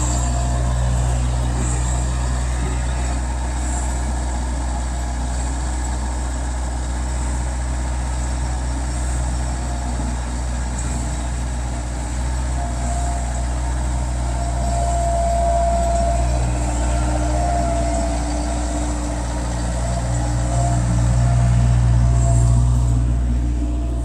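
Skid steer's diesel engine running steadily, louder for a couple of seconds near the end as it takes more throttle or load.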